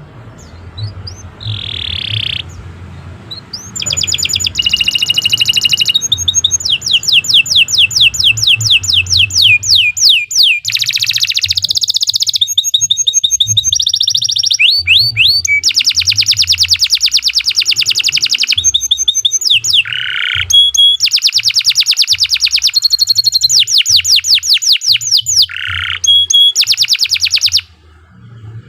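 Domestic canary singing a long, continuous song of rapid, high-pitched trills, each a fast run of repeated notes. The trills switch to a new note every second or two. The song begins after a few short notes about four seconds in and stops abruptly near the end.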